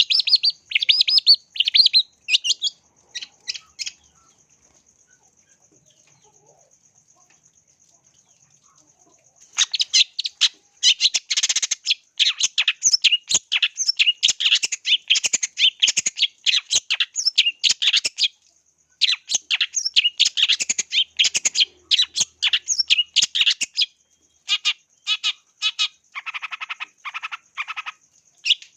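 Long-tailed shrike (cendet) singing a fast, chattering song of rapid high notes. It breaks off for about five seconds a few seconds in, then returns in dense runs, ending in spaced notes with a short lower, rougher burst near the end.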